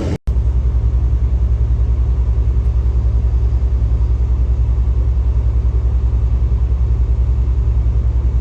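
A vehicle engine running with a steady low rumble and a fast, even throb of about ten pulses a second.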